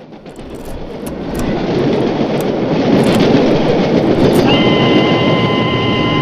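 A loud rumbling roar that swells over about two seconds and then holds steady. A chord of several high, steady tones joins about four and a half seconds in.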